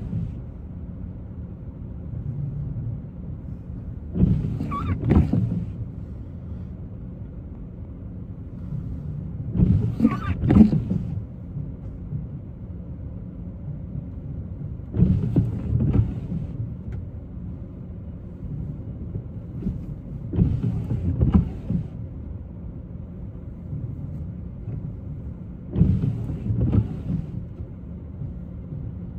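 Steady car road and engine noise heard from inside, with windshield wipers sweeping in a slow, regular rhythm: a pass about every five and a half seconds, each lasting about a second and a half, five in all.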